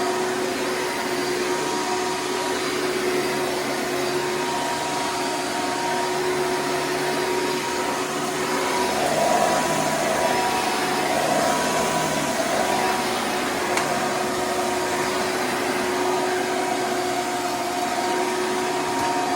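Hoover Preferred vacuum cleaner running steadily: a continuous motor rush with a steady pitched whine, swelling a little louder about halfway through.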